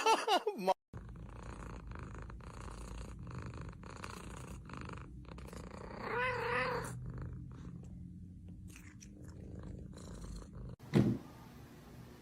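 Domestic cat purring steadily, a low rhythmic rumble, with a short higher-pitched wavering sound about six seconds in and a brief thump near the end.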